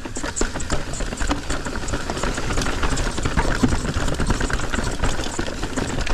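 Mountain bike riding down a rough, dry dirt trail: tyres crunching over dirt and rocks, with a dense, continuous rattle of chain and components over a low rumble.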